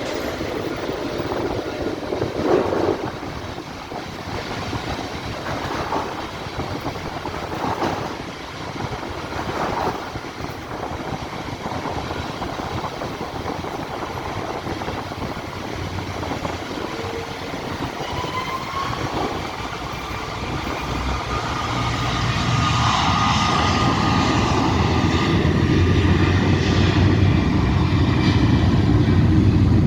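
Jet aircraft approaching over steady traffic-like noise with occasional knocks. About two-thirds of the way in, a rising engine whine sets in, and a low rumble builds louder to the end.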